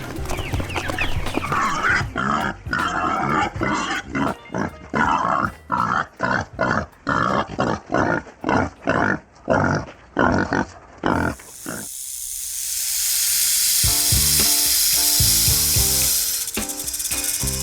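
A pig grunting over and over in short, evenly spaced grunts, about two a second. The grunts stop about twelve seconds in, and a steady hiss takes over, followed by music with clear, plucked-sounding notes.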